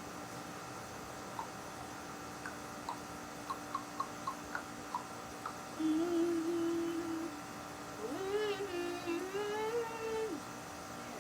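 A person humming two short phrases of a tune, the second rising and falling in pitch, over a steady electrical hum; a series of light clicks and taps comes before the humming.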